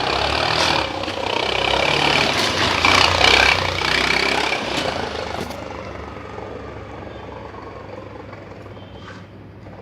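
Scooter engine revved after being taped up to imitate a Duke motorcycle's sound, loudest about three seconds in, then dying back as the revs drop.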